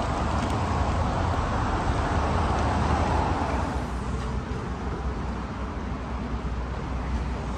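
Heavy rain falling on open water, a steady hiss over a low rumble; the hiss thins a little about four seconds in.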